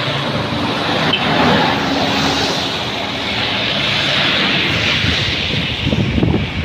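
Large box truck running, its engine hum under a steady rushing noise of traffic and road.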